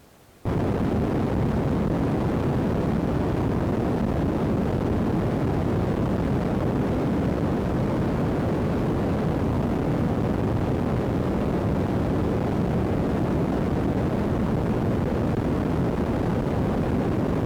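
Loud, perfectly steady rushing noise from an iPod's faulty microphone, switching on abruptly about half a second in and holding unchanged.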